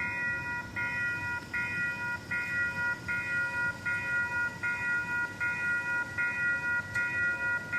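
Railroad grade-crossing warning bell ringing steadily, a bright repeated ding about once every three-quarters of a second, sounding while the crossing is blocked by stopped trains.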